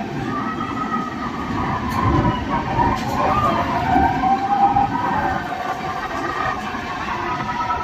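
Train running through a tunnel: a steady rolling rumble with a wavering high-pitched squeal of wheels on the rails that grows louder around the middle.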